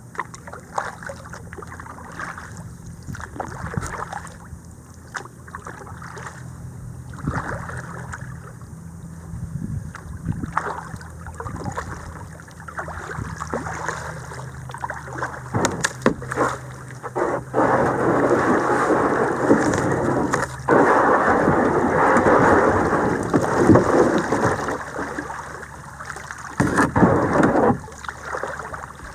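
Kayak on a small creek: paddle strokes and water sloshing against the hull. For about ten seconds in the second half it turns into a louder, steady rushing and scraping.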